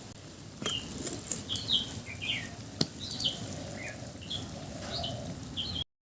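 Small birds chirping repeatedly in short calls, with a few sharp knocks among them; the sound cuts off abruptly near the end.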